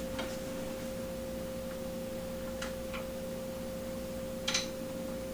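A steady, faint electrical hum on one pitch, with a few light clicks as small plastic GoPro-style buckle mounts are handled; the loudest click comes near the end.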